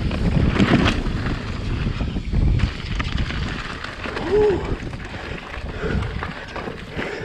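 Mountain bike descending rough singletrack, heard from an action camera on the bike or rider: wind buffeting the microphone with the frame and parts rattling and thumping over roots and rocks. A brief pitched sound rises and falls about four seconds in.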